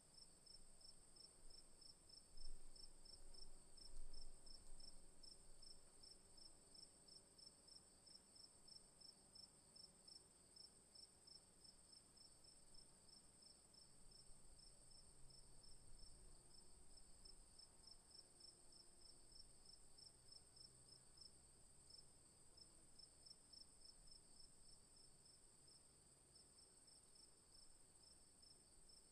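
Crickets and other insects calling faintly: a steady high-pitched drone, with a second, lower call pulsing in a quick, even rhythm. Two soft low bumps come a few seconds in.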